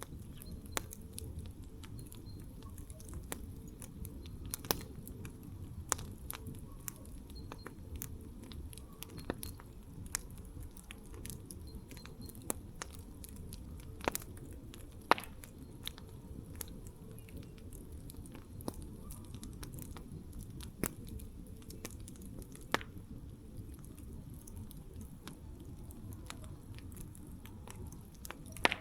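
Wood campfire burning with a low steady rumble of flames and irregular sharp crackles and pops, a few louder snaps standing out among them.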